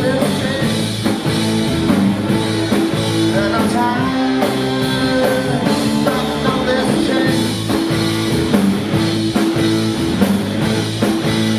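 A rock band playing live: guitar and sustained chords over drums keeping a steady beat.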